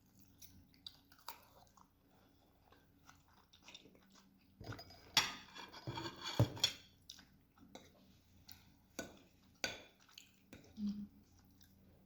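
Close-up eating sounds of a lagman noodle meal: chewing, with short clicks of cutlery against a dish. A denser, louder stretch of eating noise comes about five to seven seconds in.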